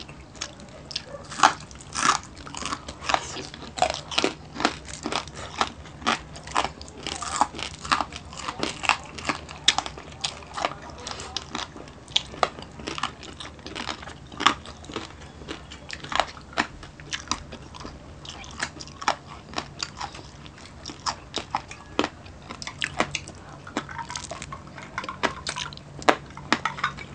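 Close-miked chewing and crunching of crispy sisig and fried fish by two people eating with their hands. Sharp, irregular crunches come several times a second over a faint low hum.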